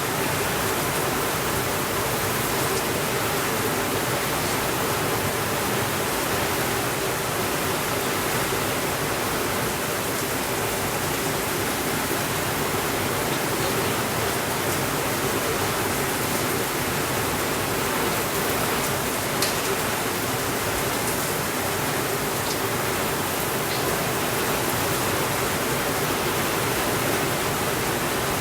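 Steady rainfall, an even hiss with no thunder. A few faint clicks come through in the second half, one a little more distinct about two-thirds of the way in.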